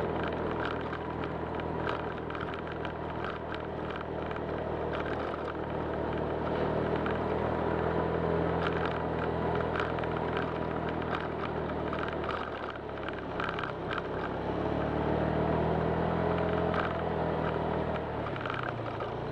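Honda Click 125 scooter's single-cylinder engine running steadily under way, mixed with road and wind noise. Its pitch dips about two-thirds through and picks up again soon after.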